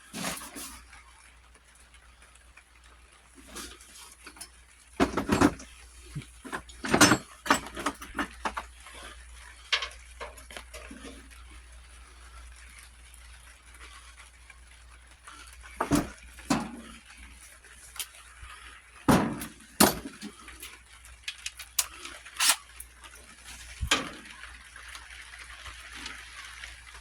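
Scattered clanks and knocks of hand tools and metal tractor parts being handled, irregular, with louder knocks about five, seven, sixteen and nineteen seconds in.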